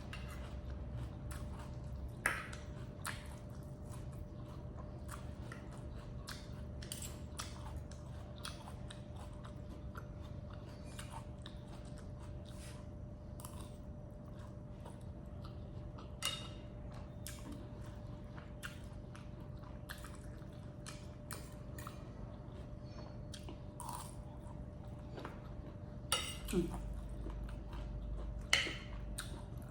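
A person chewing mouthfuls of rice and stir-fried shrimp and squid, with small wet mouth clicks throughout and a few sharper clicks, over a steady low hum.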